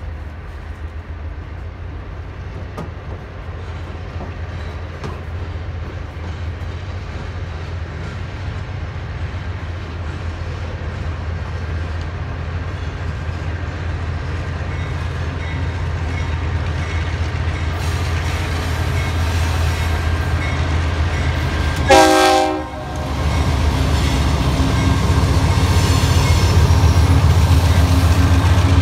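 Union Pacific freight train approaching behind its diesel locomotives, the engines' rumble growing steadily louder. One short horn blast sounds about three-quarters of the way through, then the locomotives and cars pass close by with engine and rail noise.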